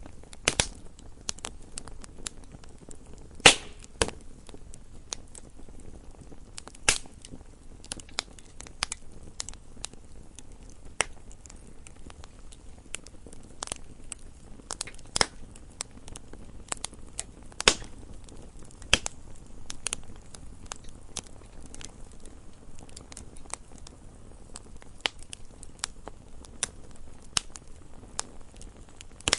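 Wood fire burning in a fireplace, crackling with irregular sharp pops and snaps over a low hiss; the loudest pop comes about three and a half seconds in.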